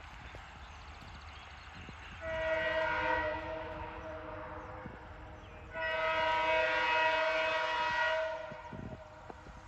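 Locomotive air horn sounding two long blasts, each a chord of several steady tones, over the low rumble of the train.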